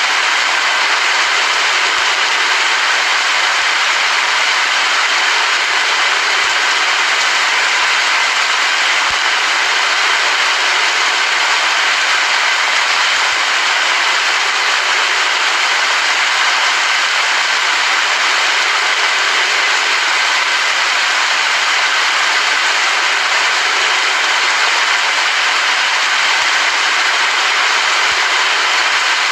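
Steady heavy rain: an even, unbroken hiss of falling drops that holds the same level throughout.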